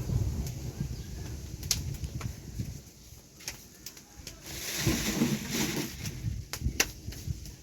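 Wood campfire crackling: scattered sharp pops over a low rumble, with a louder hissing stretch about five seconds in.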